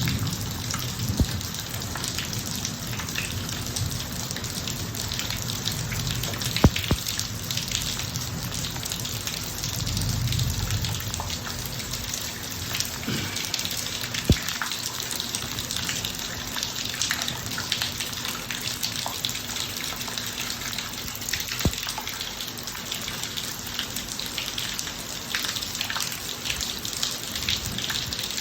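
Steady rain falling on a paved driveway, with scattered sharp drips, three of them standing out. A brief low rumble swells about ten seconds in.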